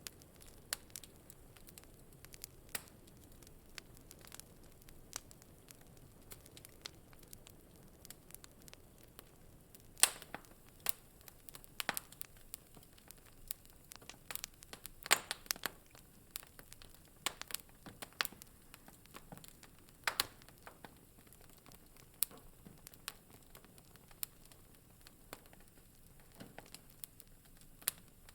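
Wood fire burning in a fireplace: irregular sharp crackles and pops over a faint steady hiss, a few louder snaps among them.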